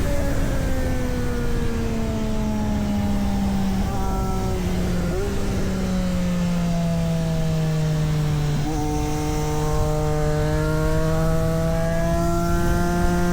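Triumph Street Triple 765 RS's inline three-cylinder engine running on track. Its note falls slowly and jumps up sharply twice, about five and nine seconds in, as it shifts down, then climbs gradually as it pulls again.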